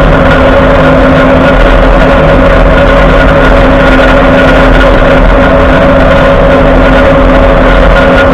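Loud, steady road and driveline noise under a moving Ford F-150 at the driver's-side front axle, with a constant whine-like grind held at a steady pitch. The front axle shaft is spinning with the wheel even in 2WD, a fault the dealership puts down to a locked-up IWE wheel hub.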